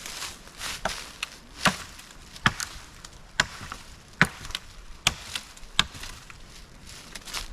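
An axe chopping into wood, with about seven sharp strokes at a regular pace of roughly one a second and lighter knocks between them.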